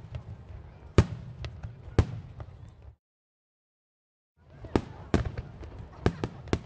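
Aerial fireworks shells bursting: sharp, separate bangs over a low rumble, with a loud one about a second in and another a second later. The sound fades out to complete silence about three seconds in, then fades back in a second and a half later to a quicker run of bangs.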